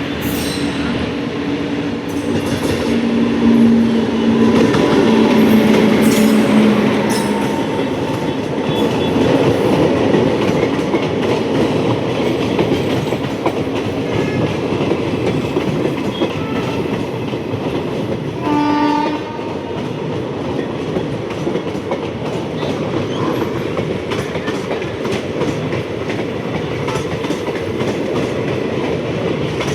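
Indian Railways train passing with steady rumble and wheel clatter. A locomotive horn sounds for several seconds at the start, and a short horn toot comes about two-thirds of the way through.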